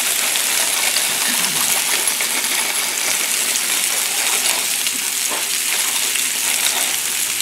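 Sliced red potatoes sizzling in oil on a hot Blackstone flat-top griddle: a steady hiss with a few small pops.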